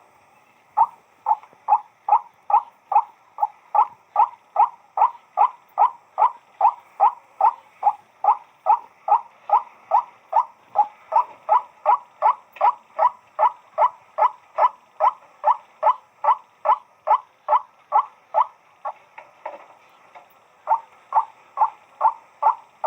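White-breasted waterhen (burung wak-wak) calling: a long run of short, even, repeated calls at about two a second, breaking off briefly and then starting again near the end.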